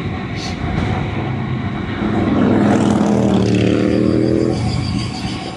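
A motor vehicle's engine running close by, coming up about two seconds in and fading out near the end, over a steady rushing noise.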